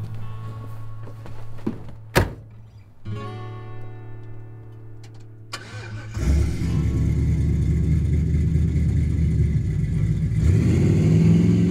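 A car door shuts about two seconds in. About six seconds in, the Chevrolet Chevelle's engine starts with a sudden loud rumble and runs on, revving up near the end, over acoustic guitar music.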